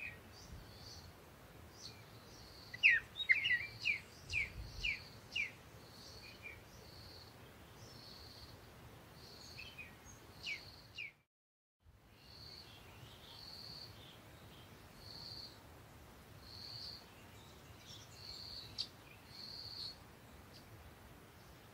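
Birds calling. One bird repeats a short high note about once a second. Another gives a quick run of about seven falling chirps a few seconds in, the loudest part, and a few more just before a brief dropout near the middle.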